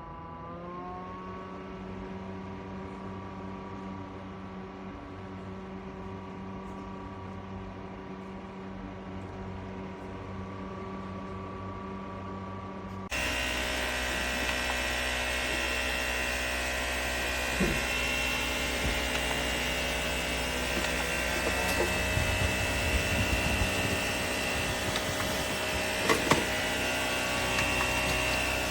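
Small electric fan motor of a portable evaporative air cooler running with a steady hum, its pitch stepping up under a second in. About halfway through it changes abruptly to a louder, hissier whir with a high tone and a few clicks and knocks.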